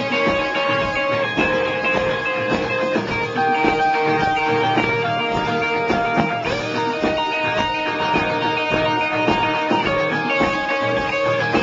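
Rock band playing live, an instrumental passage led by guitars with held, sustained notes.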